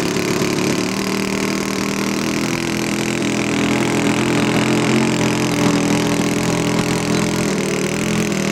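Engine of a radio-controlled scale model airplane, running steadily at low throttle with only small changes in pitch.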